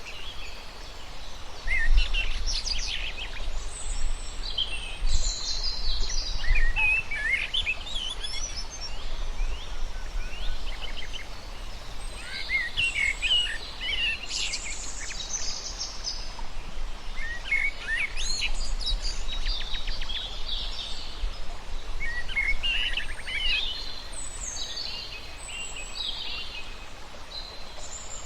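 Several birds chirping and singing in quick, overlapping trills and twitters, over a low rumble.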